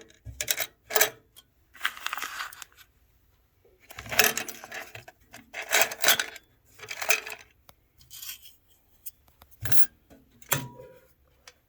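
Small metal parts clattering and jangling as they are tossed back into storage, in a series of irregular bursts of rattling.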